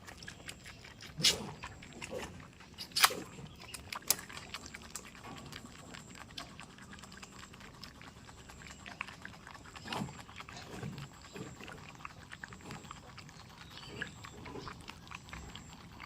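Goats moving about, with scattered sharp knocks and clicks, the loudest about one and three seconds in, and a few short low grunts; no full bleats.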